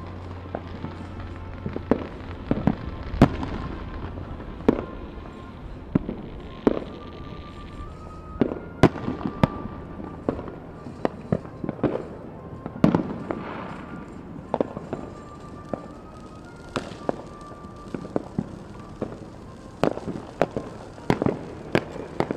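Fireworks going off in a run of irregular bangs and pops, sometimes several in quick succession, with the loudest bangs about three, nine and thirteen seconds in.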